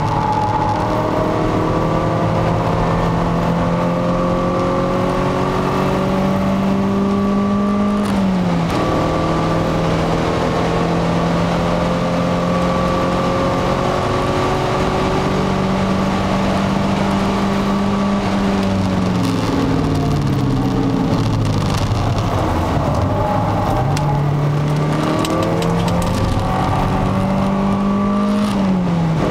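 Peugeot 306 XSi's four-cylinder petrol engine heard from inside the cabin, pulling hard through the gears under a steady rush of road and wind noise. The note climbs, drops at an upshift about eight seconds in, climbs again, falls away over several seconds past the middle as the car slows, then rises once more and drops at another upshift near the end.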